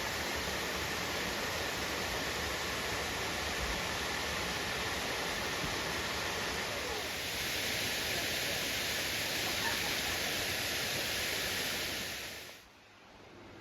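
Steady rush of water from a small creek waterfall. It cuts off abruptly near the end, leaving a much quieter faint hiss.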